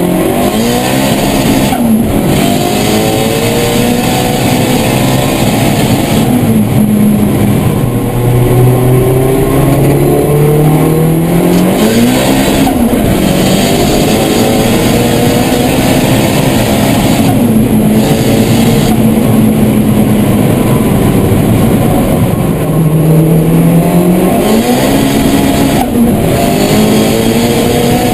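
A 700-horsepower tuned Volkswagen Golf engine accelerating hard, its pitch climbing and then dropping sharply again and again as it shifts up through the gears.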